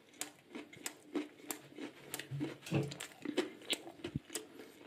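Someone chewing a mouthful of crispy breaded chicken burger, with short crunches and mouth clicks about three times a second.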